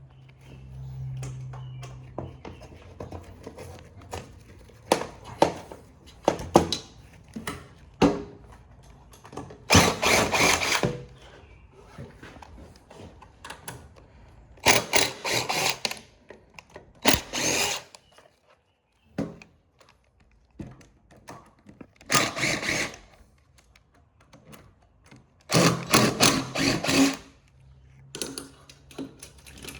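Power drill running in about five short bursts, each a second or so, while backing screws out of a scrapped printer's frame, with knocks and clicks of metal parts and tools in between.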